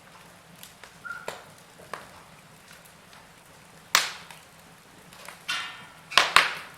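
Log fire crackling, with scattered sharp pops from the burning wood: one loud pop about four seconds in and a loud cluster of pops near the end.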